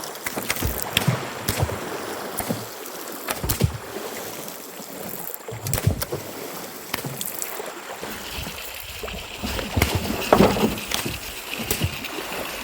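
River water sloshing and splashing with irregular knocks as people work in the river setting a fishing net. A steady high buzz joins about two-thirds of the way through.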